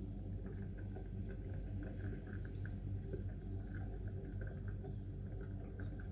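Short, scattered chirps from house sparrows, many small calls in quick irregular succession, over a steady low hum.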